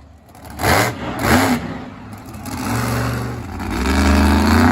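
Monster truck engine revving: two short, loud blips, then a longer rev that rises in pitch and gets louder near the end.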